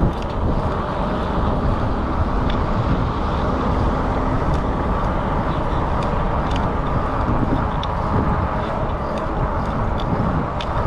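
Steady rushing noise of riding an e-bike: wind buffeting the chest-mounted camera's microphone and tyre noise on the path. A few faint ticks sound through it.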